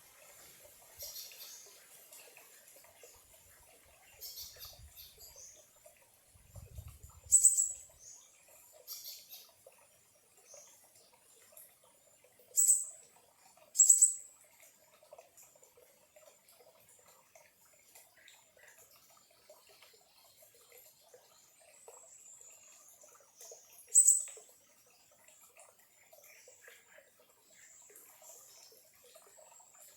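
Birds calling with sharp, high chirps, a few of them loud and spread out, and thin falling whistles later on, over a faint steady trickle of a small stream. A couple of brief low thuds come a few seconds in.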